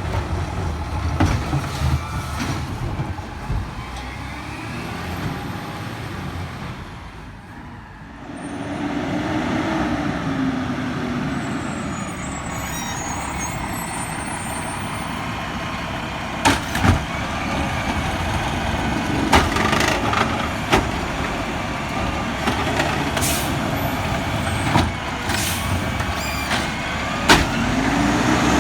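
Garbage truck running at work: the engine rumbles and twice rises and falls in pitch as it revs for the hydraulics. Sharp knocks and bangs come through the second half.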